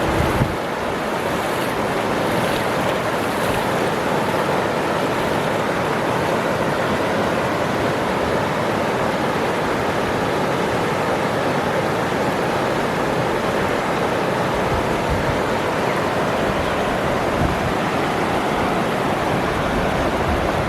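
Waterfall rushing with a steady, dense roar of falling water.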